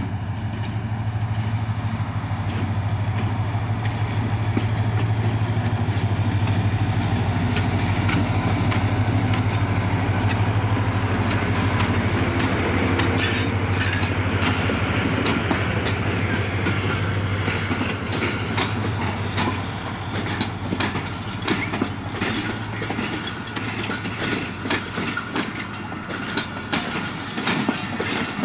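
HGMU-30R diesel-electric locomotive passing close by with a low, steady engine drone, with a brief high hiss about halfway through. Then its passenger coaches roll past, their wheels clicking unevenly over the rail joints.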